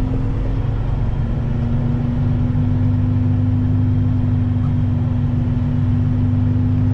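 Semi truck's diesel engine running steadily with a low drone while pulling a heavy trailer, its pitch dropping slightly about a second in.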